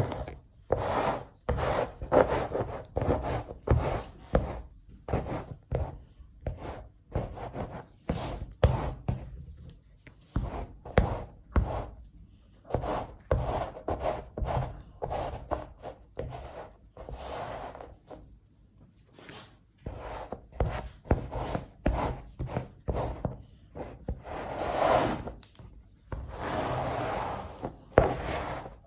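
Scraping and rubbing strokes worked by hand over an artwork substrate, short and irregular, often a few a second, with two longer drawn-out strokes near the end.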